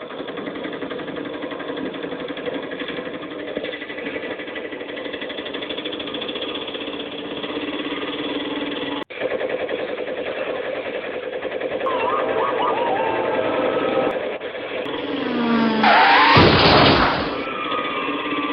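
Small vehicle engine running steadily. Near the end there is a louder, noisier burst of about a second with pitch falling.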